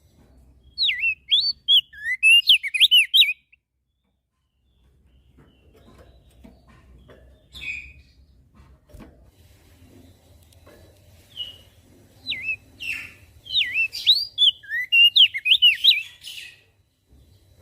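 Crested white-eye (opior jambul) singing: bursts of quick, sweeping warbled notes. The first burst comes about a second in and lasts a couple of seconds; a longer run follows from about 11 seconds until near the end. Between them is a quiet stretch with only a faint low hum and a few clicks.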